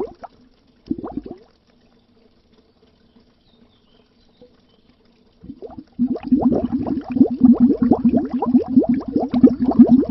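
Underwater bubbling, a dense stream of quick gurgling bubble blips. It cuts off just after the start, returns for a brief burst about a second in, falls to near silence for a few seconds, then resumes steadily about six seconds in.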